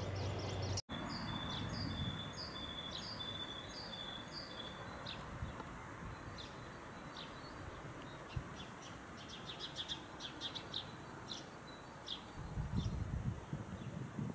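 Small songbirds calling: a run of repeated high two-part notes, about two a second, for the first few seconds, then scattered short high chirps.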